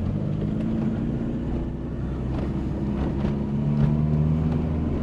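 VW Polo coupe's freshly rebuilt engine running at light throttle while driving, heard from inside the cabin with road noise, being driven gently to run it in.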